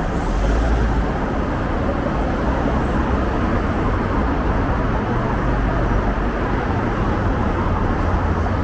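Steady city road traffic noise: a constant wash of passing cars with a heavy low rumble.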